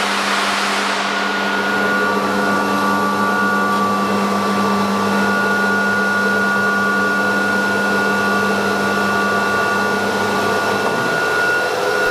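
BCAM S-series CNC router's machinery running: a steady airy rush with a hum and several fixed whine tones, of the kind made by its vacuum hold-down pump or extraction system.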